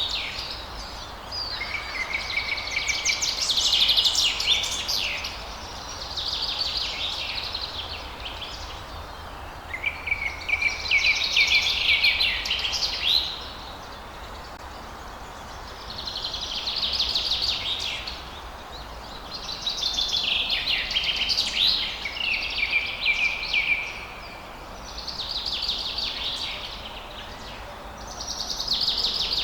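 Songbirds singing in phrases of rapid chirps and trills, one phrase every three to four seconds, over a steady low background noise.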